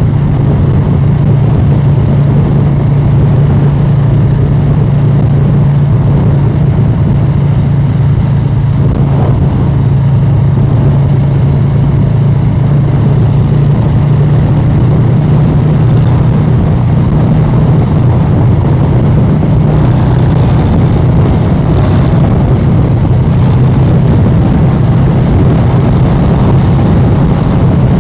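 Harley-Davidson Street Bob 114's Milwaukee-Eight 114 V-twin running through a new exhaust at a steady cruise: a loud, low, even drone with little change in revs.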